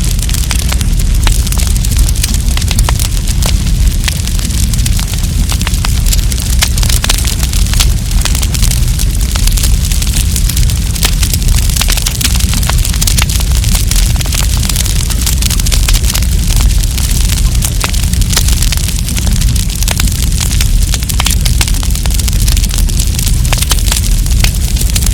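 Wood campfire crackling and popping: many sharp, irregular crackles over a steady low rumble.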